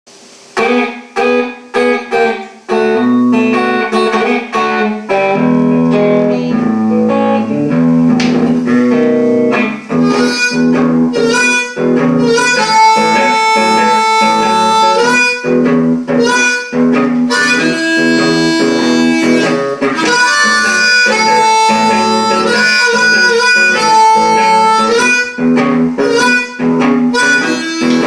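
Instrumental blues intro on electric guitar and blues harmonica: a few separate guitar notes open it, then a steady groove with the harmonica playing long held notes over the guitar.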